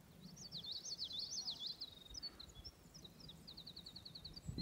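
A songbird singing. It gives a quick jumble of high, sliding notes over the first two seconds, then after a short pause a fast run of about ten evenly spaced notes.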